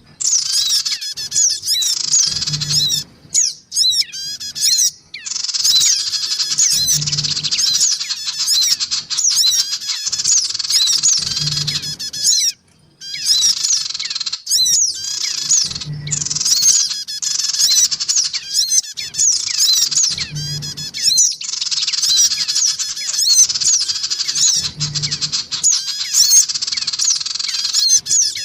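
Crimson sunbirds (sogon), male and female, calling in a loud, excited chatter of rapid high chirps and squeaky notes with hardly a pause. A short low thump recurs about every four and a half seconds.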